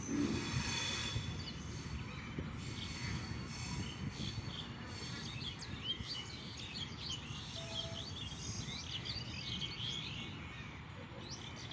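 Passenger train's coaches rolling away on a curve, a low rumble fading slowly, with a brief high wheel squeal in the first second. Birds chirping from about four seconds in.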